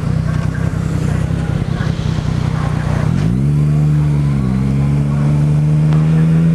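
Yamaha MT-09's three-cylinder engine running low and steady, then rising in pitch as the bike accelerates about three seconds in. After a brief dip in pitch the note holds, slowly climbing.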